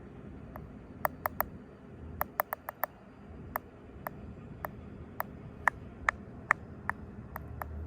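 Fast, irregular fingertip taps on a camera lens for ASMR, some coming in quick runs of three or four, over a low steady rustle of hands moving close to the microphone.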